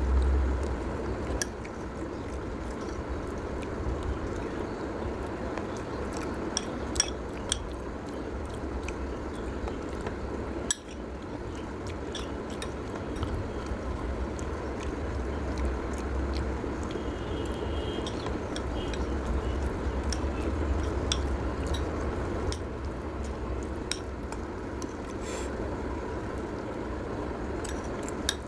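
Cutlery clinking against a dish with scattered sharp clicks while noodles are eaten, over a steady low rumble.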